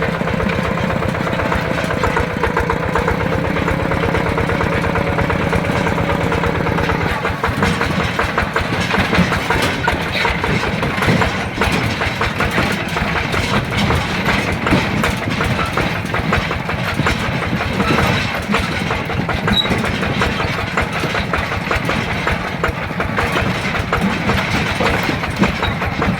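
Yanmar TF120 DI single-cylinder diesel engine of a mini tractor running steadily with a fast, even chugging. About seven seconds in, a steady hum under it stops and the engine sound turns rougher and noisier.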